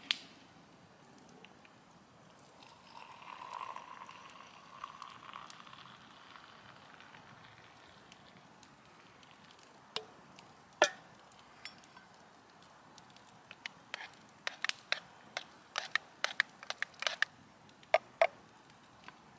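Wood campfire crackling, with scattered sharp pops and snaps that come thick and fast over the last third.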